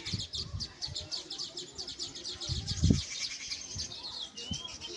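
Baya weaver birds chattering: a fast, continuous run of high chirps, many a second, with a short rising whistle near the end. A loud low thump comes about three seconds in.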